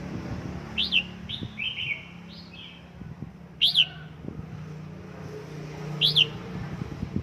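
Red-whiskered bulbul calling: three sharp, loud chirps spread over several seconds, with a short warbled phrase after the first.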